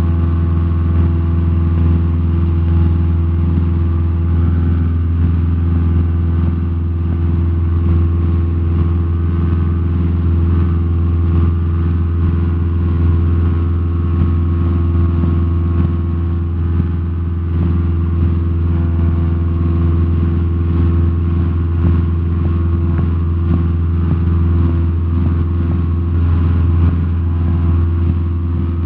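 Cessna 172SP's four-cylinder Lycoming engine and propeller droning steadily at climb power just after takeoff, with an even, unchanging pitch.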